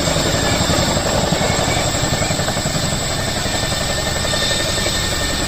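Helicopter flying by with rapid rotor chop over steady engine and turbine noise.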